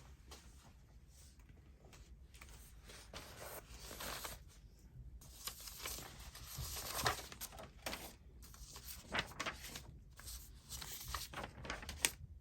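Sheets of paper rustling and sliding as a stack of printed ephemera is leafed through, with scattered soft taps, busiest about halfway through.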